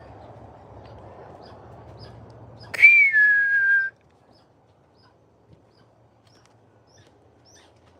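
One loud whistled note about a second long, about three seconds in, starting a little higher and then settling slightly lower in pitch. Afterwards there are only faint, short, high chirps of small birds.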